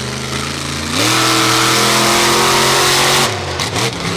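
Car engine revving up sharply about a second in, holding at high revs for about two seconds, then dropping back near the end.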